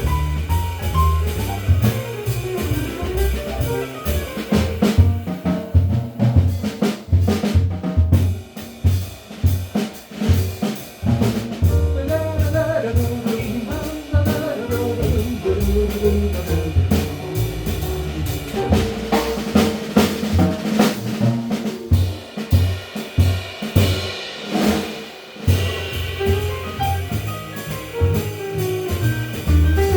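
Small jazz band playing an instrumental passage of a swing standard, with the drum kit prominent (snare hits, rimshots and bass drum) over bass and other pitched instruments.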